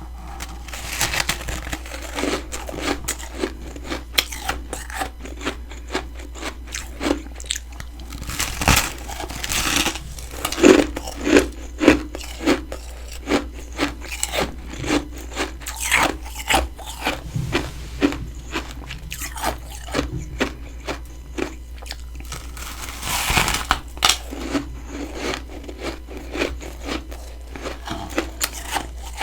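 Close-up biting and chewing of freezer frost built up by a humidifier: many crisp, irregular crunches, heavier in a couple of spells.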